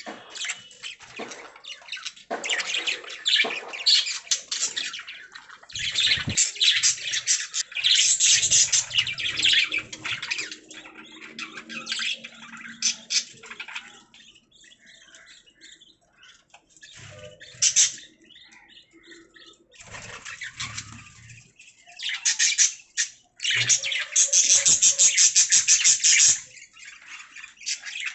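Budgerigars chirping and chattering in bursts, thinning out around the middle, then a loud run of very rapid chatter near the end. A few low thumps are mixed in.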